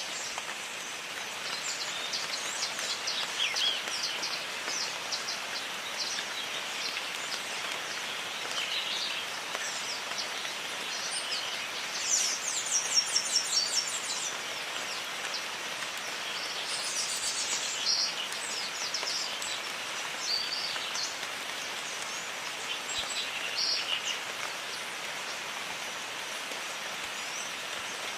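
Steady rain falling in a jungle, with birds calling over it. A rapid trill stands out about halfway through.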